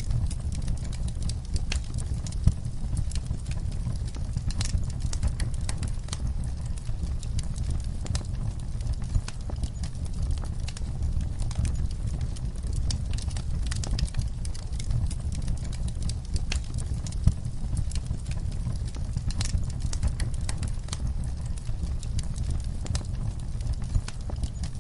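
Wood fire crackling steadily: a dense run of sharp pops and snaps, a few louder than the rest, over a constant low rumble.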